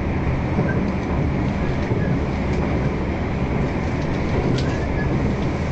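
Irish Rail train running at speed, heard from inside the carriage: a steady low running noise of wheels on rail, with a few faint clicks.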